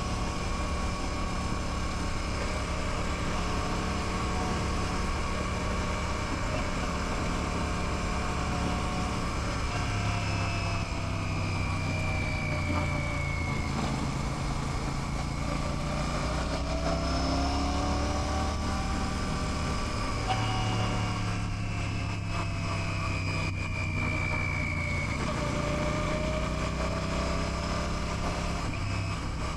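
Royal Enfield Classic 650's 648 cc parallel-twin engine running on the road, its note rising and falling several times with throttle and speed.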